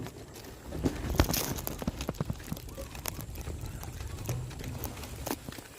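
Footsteps of someone walking: a run of irregular light knocks and scuffs over a low rumble, loudest about a second in.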